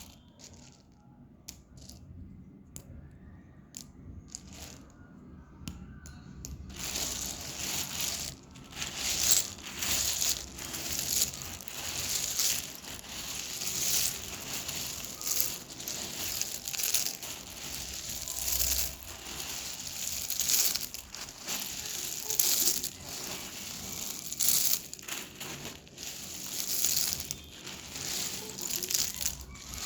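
Dry Nakumatt clay being crushed and crumbled. For the first several seconds there are only faint scattered crackles, then from about seven seconds in a dense, continuous crunching with many sharp crackles.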